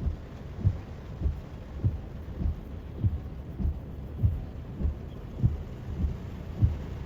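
Rain on a car with windshield wipers beating in a steady rhythm, a dull low thump about every 0.6 seconds, over a constant hiss of rain and wet road.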